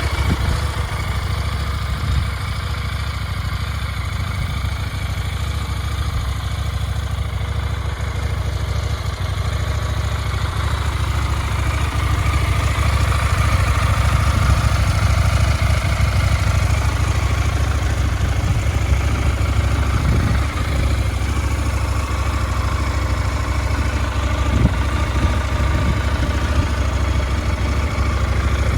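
KTM 990 Duke parallel-twin engine idling steadily, with a few faint knocks late on.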